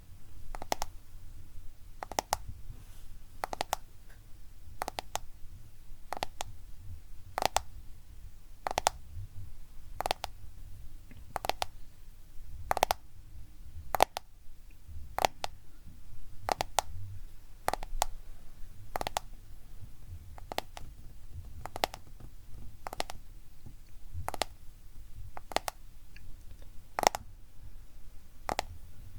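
Close-miked tapping on a smartphone: sharp, crisp clicks about one to two a second, some in quick pairs, in an uneven rhythm.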